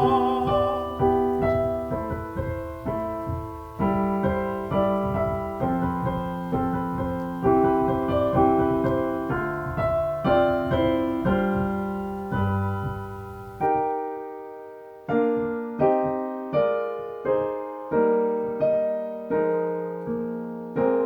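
Solo piano playing a slow hymn-like passage, chords struck and left to die away, about one or two a second.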